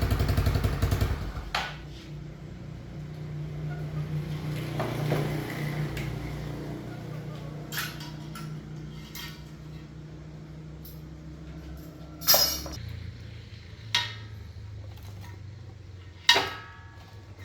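A small engine running with a fast, even beat stops about a second in, leaving a low steady hum. A few sharp metal clinks and clanks of tools or parts being handled follow, the loudest about twelve and sixteen seconds in.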